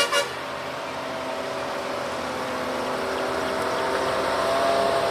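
Truck engine running steadily, its note creeping slowly upward and growing louder. A pulsing horn cuts off right at the start.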